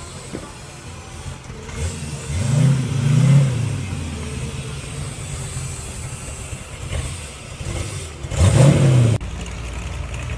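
A car engine revving: two blips of the throttle, pitch climbing and dropping each time, about two seconds in and again near the end, the second cut off sharply, with a steady engine idle under and after them.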